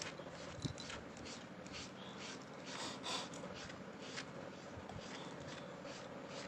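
Fingers scratching a cat's belly fur: a run of short, soft rustling scratches over a steady low hum.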